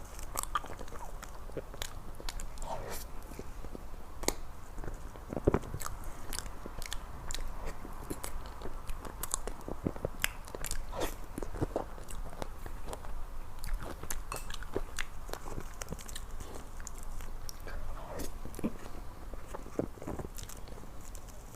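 Close-miked eating sounds: a person chewing and biting into soft ice cream cake, with wet mouth smacks and frequent irregular sharp clicks.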